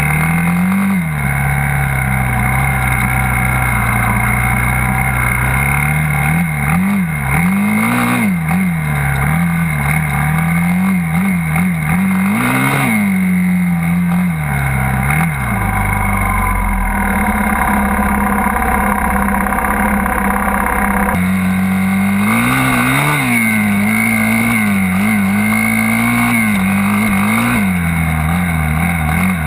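Dirt bike engine running and revving, its pitch rising and falling over and over as the throttle is opened and closed.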